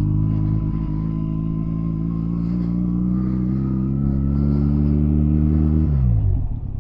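Honda Rebel 250's parallel-twin engine running under load, its pitch and loudness rising slowly as the bike gains speed, then falling away near the end as the revs drop.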